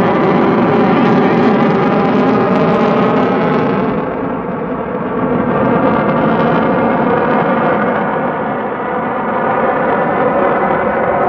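Aircraft engine drone from a display plane in flight, loud and steady with a many-layered hum, easing off a little about four seconds in before building again.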